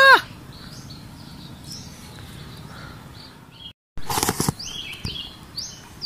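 Quiet rural background with faint high bird chirps. About four seconds in, a brief burst of rustling and knocking noise is followed by a run of short, high, falling chirps from small birds.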